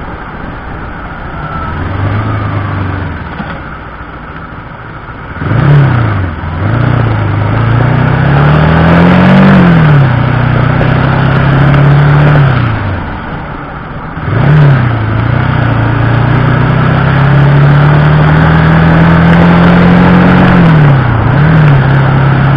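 Car engine running while driving, its pitch rising and falling as it speeds up and slows. It is quieter for the first few seconds, then louder from about five seconds in, with quick dips in pitch at about five and fourteen seconds in.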